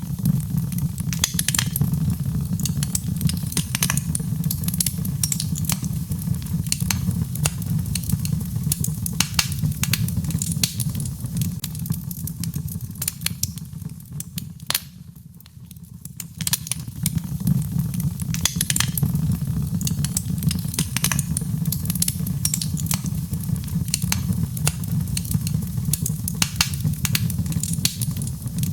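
Birchwood fire burning in a fireplace, crackling with frequent sharp pops over a steady low rumble. The rumble fades for a moment about halfway through, then returns.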